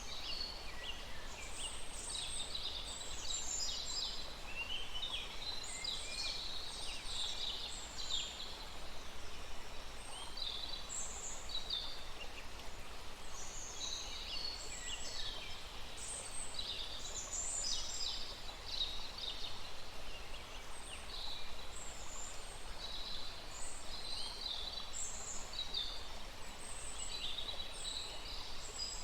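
Many birds chirping and trilling in a dense, overlapping chorus of short high calls, over the faint steady rush of a small stream.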